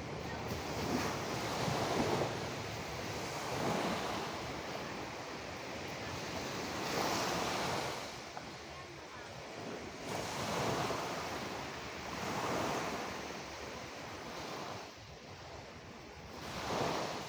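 Sea waves washing onto a shore, the surf swelling and ebbing every two or three seconds.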